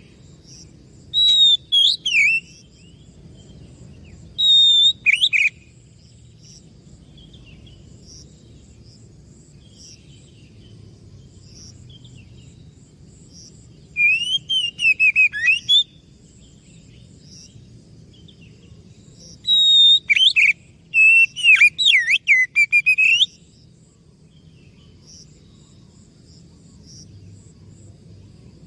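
Oriental magpie-robin (kacer) singing: four bursts of loud whistled phrases with notes sweeping up and down, separated by long pauses, with faint high ticking in the gaps.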